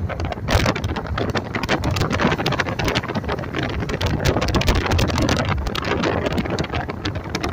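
Wind buffeting the microphone in irregular crackling gusts over the steady rumble of a car driving on the road.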